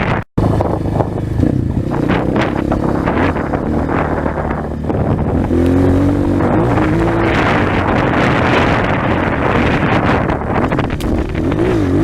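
Dirt-bike engine running and revving, its pitch rising and falling repeatedly during the second half, with wind noise on the microphone.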